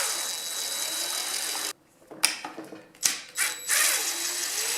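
Cordless drill/driver running in two bursts of about one and a half seconds each, with a steady high whine, backing screws out of an engine cover. A few sharp clicks and knocks of handling fall between the bursts.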